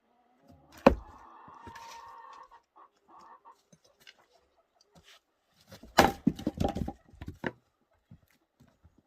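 Oak firewood being split by hand: one sharp axe strike about a second in, then a quick run of knocks as split pieces clatter down between about six and seven and a half seconds.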